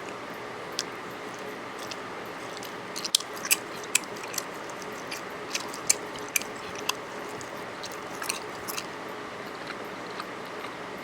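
A person eating close to the microphone: a run of irregular sharp clicks and smacks from chewing, concentrated in the middle of the stretch, over a steady background hum.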